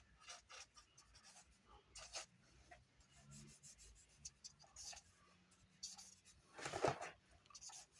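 Pen scratching on paper in short, scattered ink strokes, faint, with a longer, louder stroke or rub of the paper about seven seconds in.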